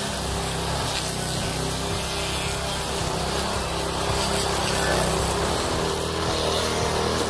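Engine-driven stump grinder running steadily, its cutter grinding into wood with a continuous rough, spraying noise over the engine's hum.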